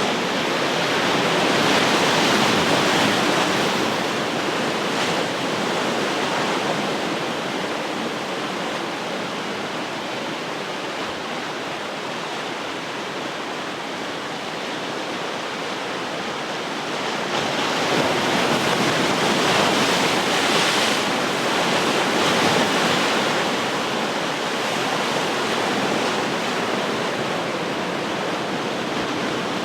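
Ocean surf: waves breaking and washing in, a continuous rushing that swells louder twice, once just after the start and again about two-thirds of the way through.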